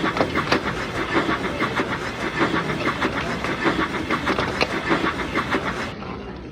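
Train running with a rapid, even clatter that cuts off suddenly near the end.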